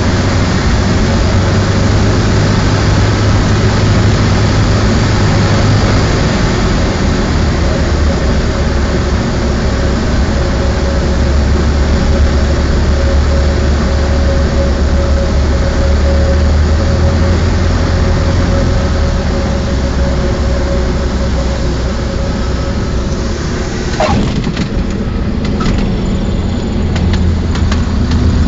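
Cessna 152's four-cylinder Lycoming engine and rushing air, heard inside the cabin on landing approach. The engine note drops to a lower pitch about 7 seconds in. About 24 seconds in there is a single sharp knock, after which the rushing noise eases and short clicks and rattles follow.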